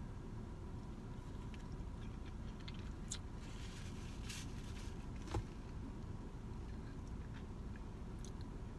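Faint closed-mouth chewing of a soft breadstick, with a few soft mouth clicks over a low steady hum, and one small knock about five seconds in.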